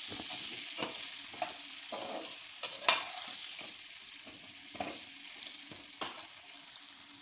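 Whole amla (Indian gooseberries) sizzling in mustard oil on a low flame in an aluminium kadhai, with a hiss that slowly softens. A perforated steel spatula scrapes and clanks against the pan in about five uneven strokes as the fruit is stirred.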